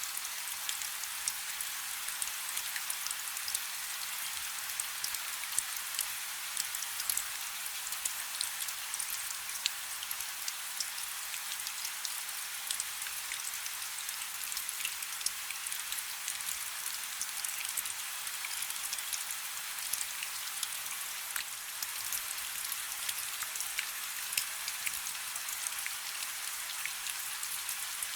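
Steady rain falling on a river: a constant hiss of rain, full of countless small drop ticks on the water.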